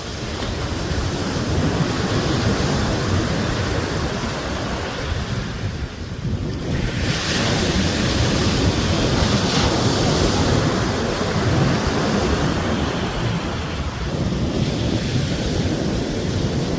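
Sea waves breaking and washing, with wind rumbling on the microphone; a louder breaker hisses in about seven seconds in and washes out over several seconds.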